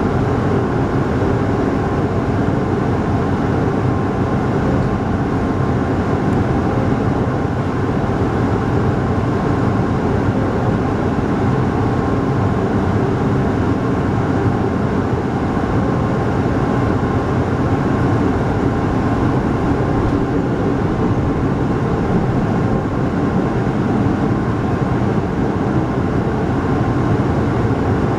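Steady running noise heard inside the passenger car of a moving local train: wheels rolling on the rails with a low, even rumble.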